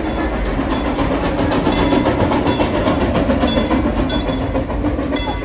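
Train rolling along the track, heard from aboard a passenger car: a steady, loud rumble of wheels on rails with clattering and short high squeaks and ticks.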